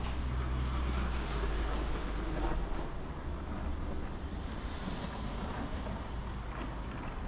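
Low engine rumble, loudest in the first few seconds and then easing, over outdoor background noise.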